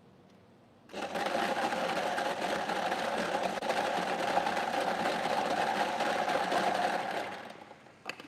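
Electric lottery ball-drawing machine running, churning its numbered balls with a steady mechanical rattle that starts about a second in and dies away after about six seconds, followed by a short click.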